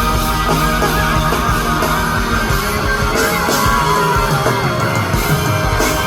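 Live rock band playing loudly on stage, electric guitar prominent over bass and drums, with a sliding note in the middle.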